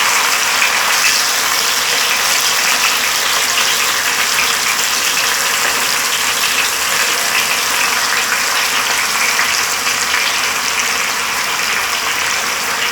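Marinated chicken pieces searing in hot oil in a skillet: a loud, steady sizzle with fine crackling.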